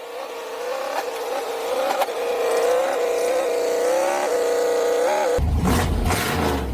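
Lowrider hydraulic pump motor whining steadily for about five seconds under load, straining against cold, thick hydraulic oil. Near the end it gives way to a louder low rumble with a hiss.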